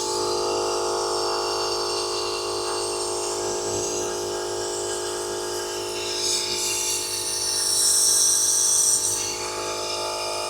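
Airaid venturi coolant vacuum tool running on compressed air: a steady, loud whine with hiss that swells near the end, then cuts off abruptly. The tool is not pulling a vacuum on the cooling system.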